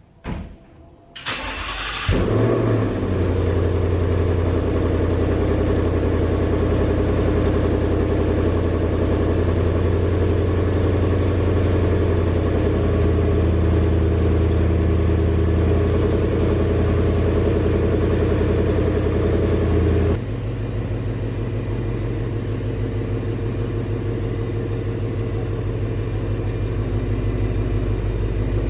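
Ford Mustang GT's 5.0-litre V8 starting: a brief crank, then it catches and runs at a raised idle. About twenty seconds in it drops to a lower, throbbing idle as the car creeps in reverse.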